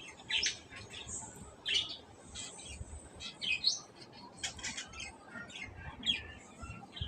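Small birds chirping in short, scattered calls, several to a second at times.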